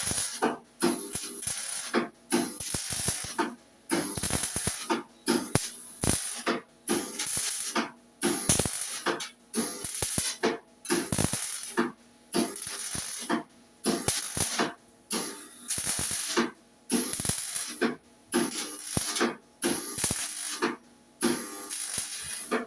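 Welding arc crackling and sizzling against steel in repeated bursts about a second long, with short breaks between them as the arc is stopped and restarted.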